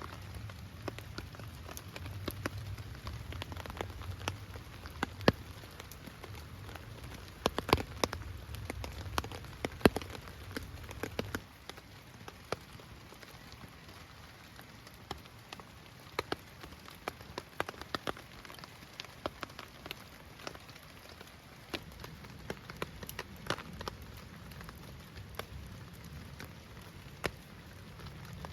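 Heavy rain falling steadily, with many sharp individual drop impacts. A low rumble underneath stops about eleven seconds in.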